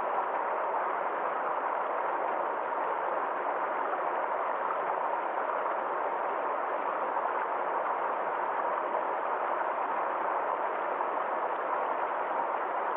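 Small forest stream flowing steadily, an even rushing of water with no breaks or changes.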